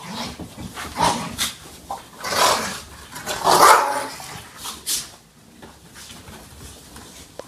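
Two pit bull puppies play-fighting, with a string of loud yaps and barks over the first five seconds, dying down after that.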